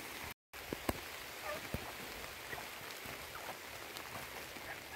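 Steady rain falling, with scattered drops ticking close by. The sound drops out briefly about half a second in.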